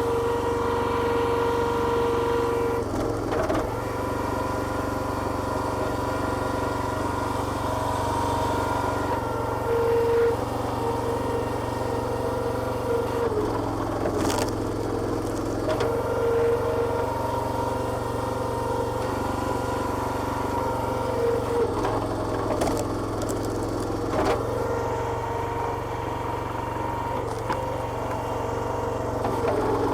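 Small petrol engine running steadily, driving the hydraulic pump of a homemade log splitter. A higher tone comes and goes in stretches of a few seconds, and there are a few sharp knocks.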